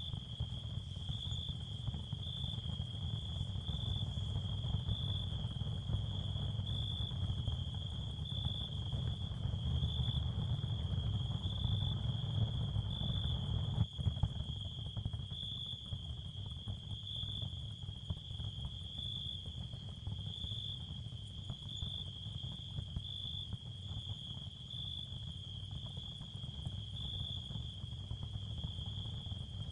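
Ambient sound-therapy field: a steady high cricket-like chirring that pulses about once a second over a constant low rumble, with a single sharp click about halfway through.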